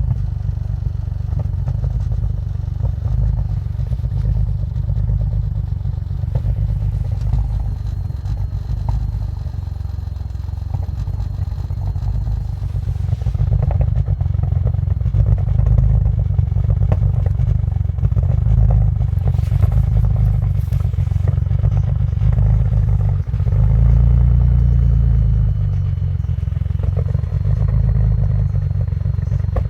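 Audi allroad's twin-turbo V6, tuned with F21 turbos and a Stage 3 file, idling roughly just after a cold start in 15°F cold. The idle swells briefly about 24 seconds in.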